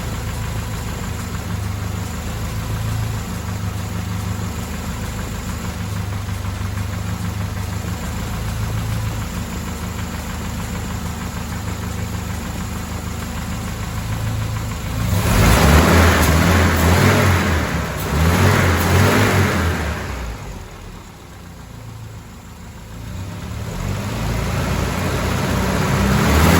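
Mercedes-Benz W124 230E's 2.3-litre four-cylinder petrol engine idling steadily, then revved up twice in quick succession about fifteen seconds in, dropping back, and revved up again near the end.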